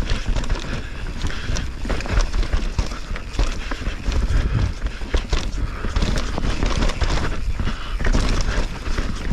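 Mountain bike descending a rough dirt trail, heard from a helmet camera: wind rumbling on the microphone, tyres on dirt and frequent clicks and rattles from the bike over bumps.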